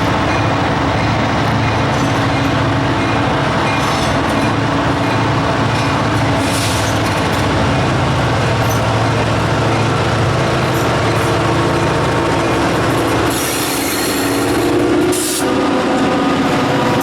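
Diesel-hauled freight train going by, with the locomotive engine's steady low hum and the rolling railcar wheels. The sound changes about thirteen seconds in, with a brief rising tone near the end.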